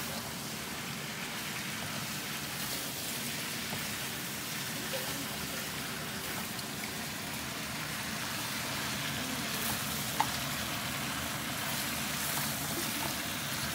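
Lobster pieces sizzling in a tamarind sauce in a wok, turned with a spatula: a steady frying hiss, with one sharp tap about ten seconds in.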